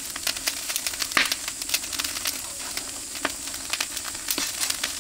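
Meat sizzling on a grill over an oak-wood fire: a steady hiss with frequent sharp crackles and pops, one louder pop about a second in.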